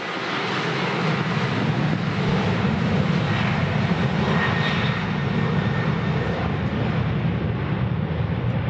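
Boeing 737-800's CFM56 turbofan jet engines running at high power, as on the take-off run: a loud, steady roar that swells in the first second, with a faint high whine in the middle.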